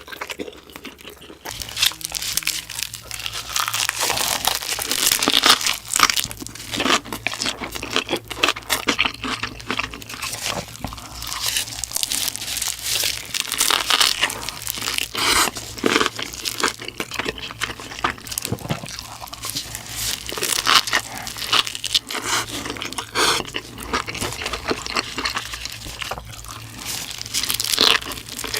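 Close-miked eating sounds: a dense run of crunching and chewing, with rapid irregular crackles and clicks as food is bitten and chewed.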